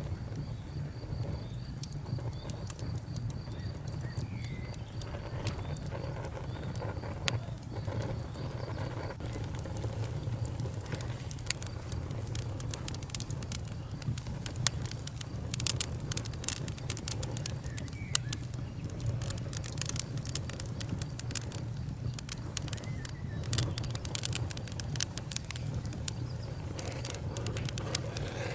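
Wood fire crackling, with a steady low rumble under many sharp pops and snaps that come thicker in the second half.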